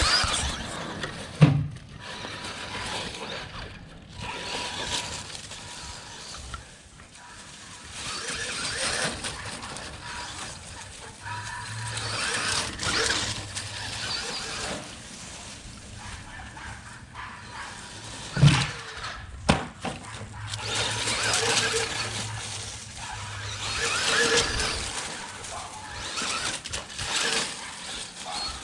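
Electric RC stadium truck running on a 3S LiPo, its motor whining and tyres hissing in repeated surges as it speeds up and slows, with a few sharp knocks along the way.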